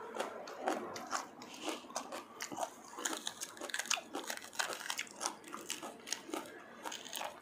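Close-up crunchy chewing of raw green pepper, with crisp snapping and crackling as fingers tear another green pepper open. Many short, irregular crunches.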